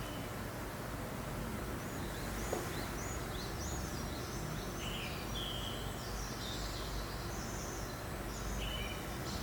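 Small birds chirping and twittering in short repeated calls over a steady low breeze.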